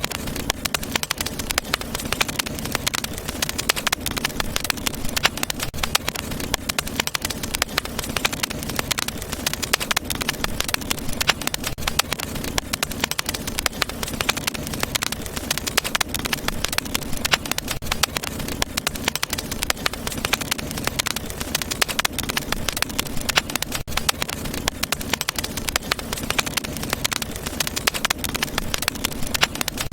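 Wood fire in a fireplace, crackling and popping continuously in dense, irregular snaps over a steady low rumble of the flames.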